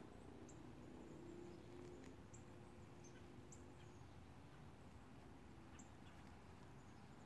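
Near-silent outdoor quiet with faint, short, high chirps from small birds every half second to a second, over a faint low hum that fades out about four seconds in.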